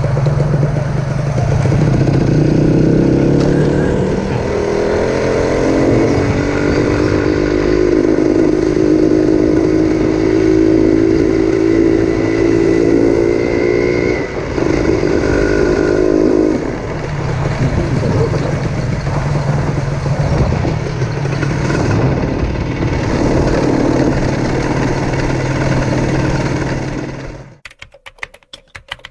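Honda Dash 125 two-stroke single-cylinder engine running and accelerating, its pitch climbing slowly over several seconds, then holding steady. Near the end the engine sound cuts off and a few sharp clicks follow.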